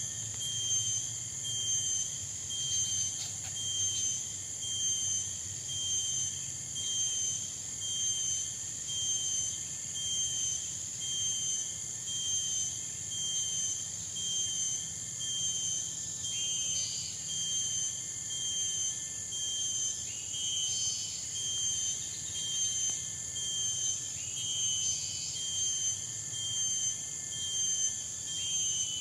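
Tropical forest insects giving a steady high-pitched drone that pulses about once a second. From about halfway through, another animal's short call repeats roughly every four seconds.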